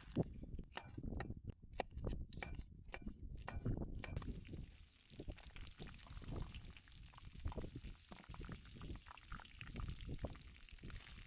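A quick series of knocks and clicks for about four seconds, then a softer stretch of liquid pouring and trickling.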